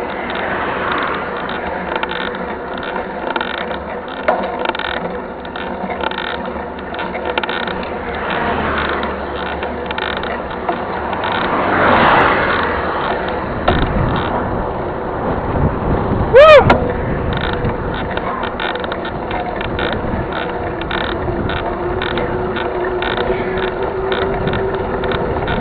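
Mountain bike rolling over a rough trail: the freehub ratchet clicks and the chain and frame rattle continuously. About two-thirds of the way through comes one short, loud, high-pitched squeal.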